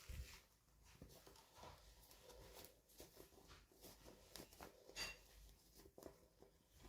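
Faint, scattered clicks and light rustles of small objects being handled, with one sharper click about five seconds in.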